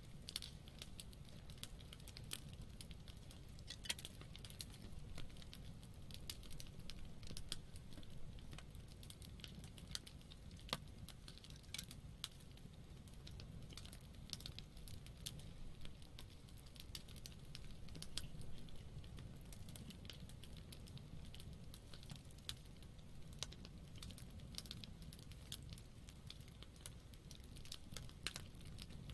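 Campfire burning, with frequent irregular sharp crackles and pops from the wood over a soft low rumble of the flames.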